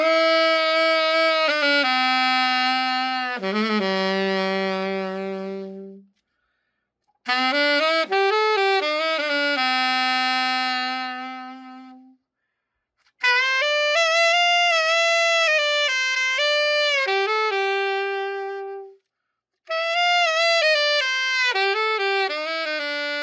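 Selmer Reference 54 alto saxophone, freshly given a precision setup, played solo in four short melodic phrases of held notes with brief silent pauses between them.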